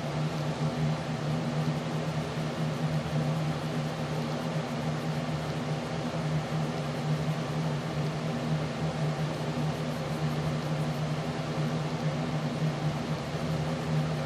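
Steady machine hum with an even background hiss, unchanging throughout.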